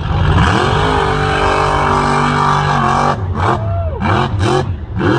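Mega truck engine revving hard: it climbs and holds high for about three seconds, then blips up and down several times in short bursts.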